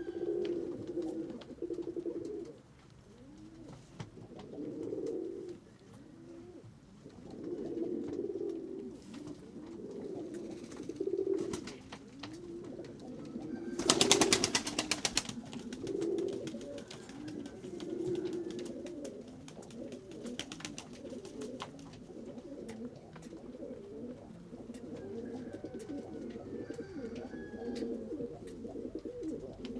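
Domestic pigeons cooing again and again in low, rolling calls. About halfway through, a burst of rapid wing flapping lasts a second or two and is the loudest sound.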